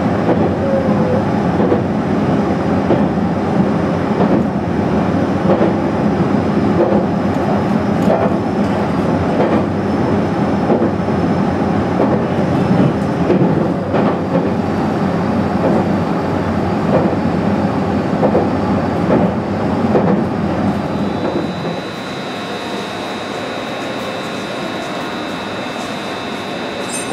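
Running noise inside a JR East HB-E300 series hybrid diesel-electric railcar travelling at speed: a steady rumble with occasional sharp clicks of the wheels over rail joints. About 21 seconds in it cuts to a quieter steady hum with a thin high tone.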